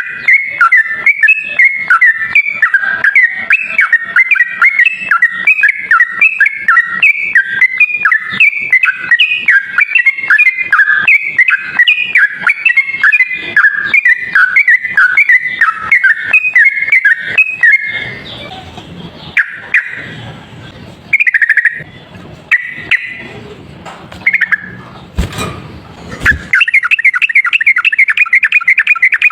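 Sooty-headed bulbul (trucuk) singing in quick, repeated chattering phrases. About two-thirds through, the run breaks into scattered calls over a rougher noisy background, then a fast, dense run of notes resumes near the end.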